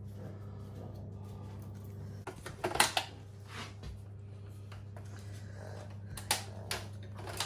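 Plastic parts of a new Shark vacuum cleaner being handled: a cluster of clicks and knocks about three seconds in and another after about six seconds, over a steady low hum.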